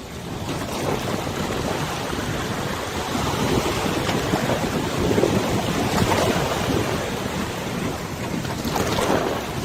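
Wind blowing over a wide river with water washing, the wind buffeting the microphone; it swells and eases in gusts.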